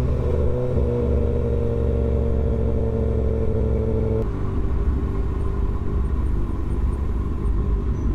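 Kawasaki ZX-6R 636 motorcycle engine, an inline-four, running at a steady speed under a low rumble of road noise; about four seconds in its steady tone stops abruptly, leaving only the low rumble.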